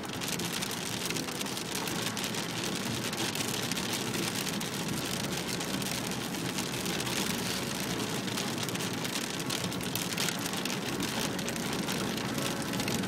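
Heavy rain pattering on a moving car, heard from inside the cabin, with a dense spatter of drops over the car's steady road noise.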